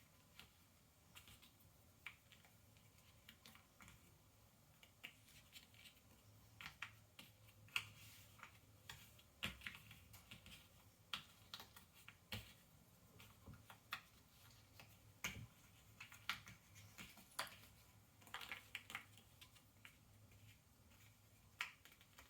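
Cardboard Ravensburger jigsaw puzzle pieces being handled and pressed into place on a tabletop: faint, irregular light clicks and taps, several every second or two, loudest about eight seconds in.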